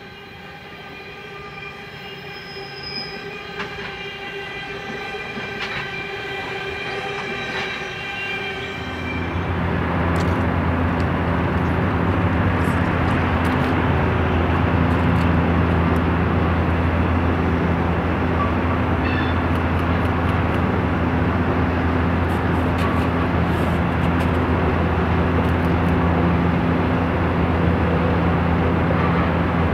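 A train approaching with a steady multi-tone whine that grows louder, then passing close from about nine seconds in: loud steel wheels rolling on rails over a steady low diesel engine hum.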